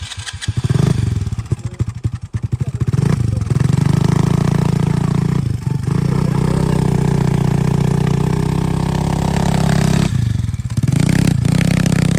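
Kayo TS90 youth dirt bike engine, firing in uneven chugs for the first couple of seconds, then picking up and running steadily under throttle. It briefly drops off twice: once about halfway through and again near the end.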